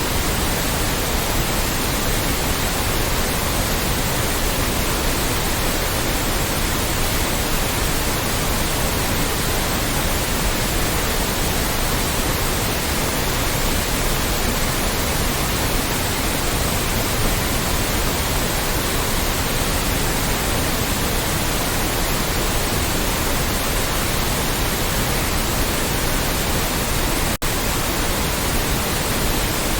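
Loud, steady white noise, an even hiss spread across low and high pitches with no rhythm or tone, broken once by a split-second dropout near the end.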